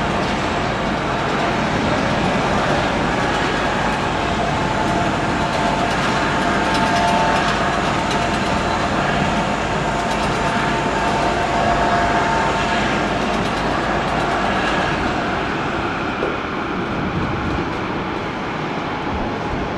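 Airliner jet engines at the gate during pushback: a steady rush with a high whine running through it, a little quieter in the last few seconds.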